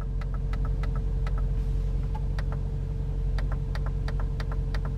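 Climate control switches on a Mercedes-Benz G63 AMG dashboard being pressed: many quick, sharp clicks, often two or three in a row, over a steady low hum.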